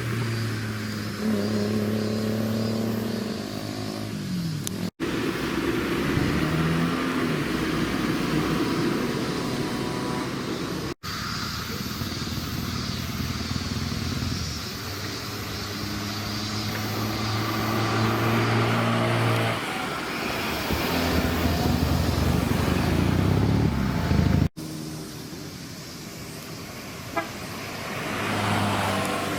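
Engines of modified cars running and revving, pitch rising and falling as they accelerate, in four short segments joined by abrupt cuts.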